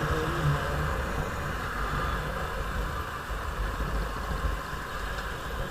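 Motorcycle engine running steadily while riding, under a steady rushing noise.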